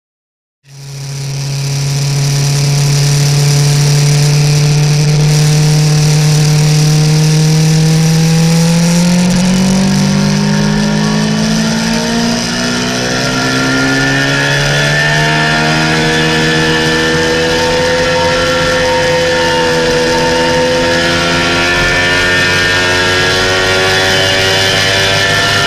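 Kawasaki ZX-6R inline-four sport-bike engine with a Scorpion aftermarket exhaust, heard from a camera mounted on the bike while riding. It comes in suddenly about half a second in and holds a steady note, then rises in revs, changes up a gear about halfway with a brief dip, and keeps pulling slowly higher.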